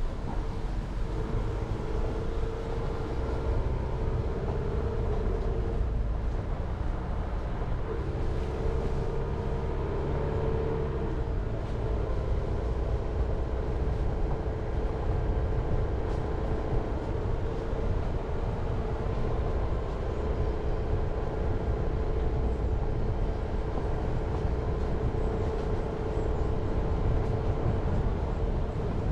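Jeep Renegade driving along a forest road: a steady engine drone over tyre and road rumble, its tone shifting a little about eight to eleven seconds in.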